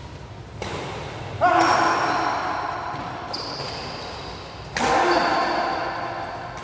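Badminton match sounds in a large echoing sports hall: three sudden sharp sounds, each ringing out for a second or more, the second and third followed by pitched, held calls.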